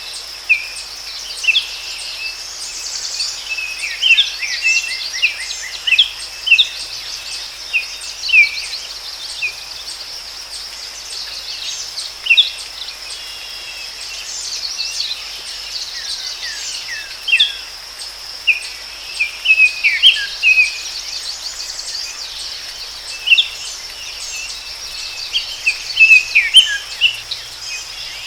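Forest ambience: many birds chirping in short, quick calls, some falling in pitch, over a steady high-pitched insect drone.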